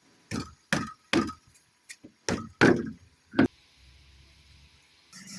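A series of about six sharp knocks at uneven spacing, a few fainter taps between them. The later ones are loudest, and the knocks stop about three and a half seconds in.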